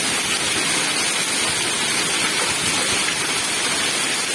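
Heavy rain mixed with hailstones pelting down: a steady, dense hiss of countless small impacts.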